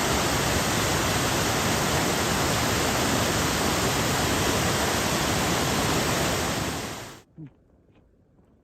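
Water from a waterfall rushing steadily, a loud even noise that cuts off abruptly about seven seconds in, leaving near silence.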